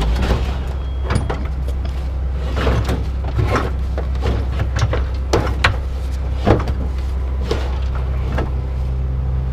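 An engine running steadily with a low hum, with a string of sharp metal clanks and rattles, the loudest about five and a half and six and a half seconds in.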